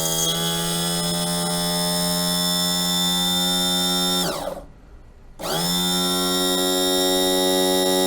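Electric power-trim pump motor of an outboard's trim unit running in two steady humming runs, the first about four seconds long and the second starting about a second after it stops, each winding down in pitch as the power is cut. The pump spins but moves nothing; the owner puts it down to the system needing more fluid, with air in the hydraulics.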